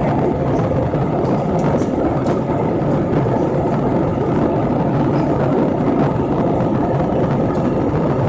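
Steady cabin noise of an airliner: a loud, even rumble with no change in pitch.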